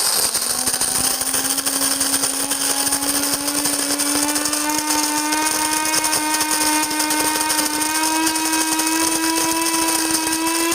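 Cuisinart Supreme Grind (DBM-8) automatic burr coffee grinder starting up and grinding beans on a medium setting. A steady motor whine runs over a loud grinding hiss, its pitch creeping slowly upward.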